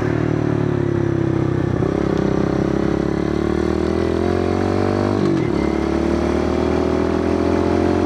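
Kawasaki KLX110 pit bike's small four-stroke single-cylinder engine under way. Its revs climb steadily, drop sharply at an upshift about five seconds in, then climb again.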